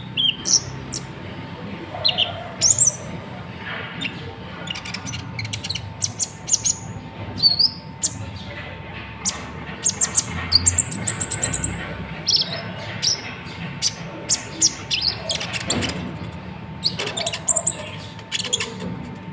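A konin (kolibri ninja), a small sunbird, singing: rapid clusters of sharp, high chirps and ticks mixed with short whistled slurs, in bursts throughout.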